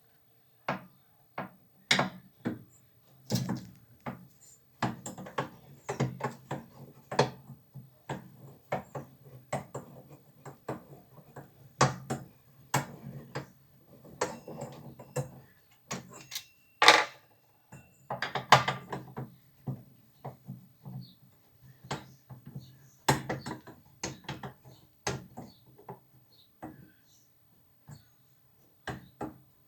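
Irregular clicks, knocks and clatter of tools and parts being handled while a washing machine is taken apart, a few strikes louder than the rest.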